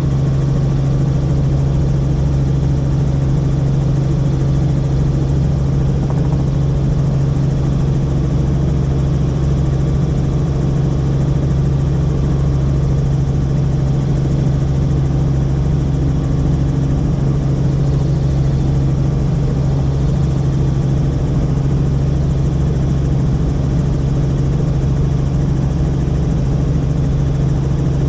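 Tour helicopter in flight heard from inside the cabin: a loud, steady drone of engine and rotors with a strong low hum, unchanging throughout.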